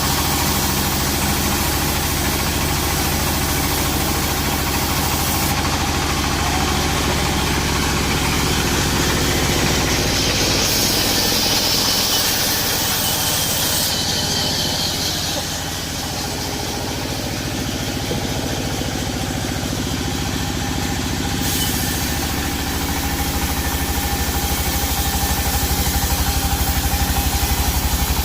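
Sawmill machinery running steadily with an engine-like drone, and a brighter, higher-pitched noise rising over it for a few seconds in the middle.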